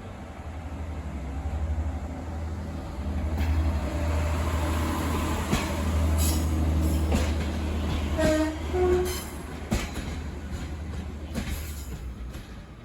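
A train running close by: a heavy low engine rumble swells up, holds, and fades away near the end, with clanks and knocks from the wheels and couplings and a brief two-note horn about eight seconds in.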